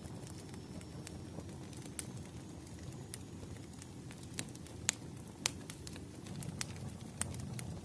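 Firewood burning: a steady low rumble of flames with scattered sharp crackles and pops, two louder pops about five seconds in.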